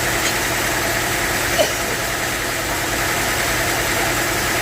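Sawmill machinery running steadily, with one short click about a second and a half in.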